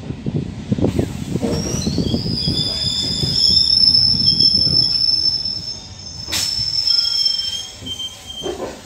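MEMU electric passenger train braking: a high, steady squeal rises about a second and a half in over the rumble of the wheels on the rails. The rumble dies away as the train slows, with one sharp click about six seconds in.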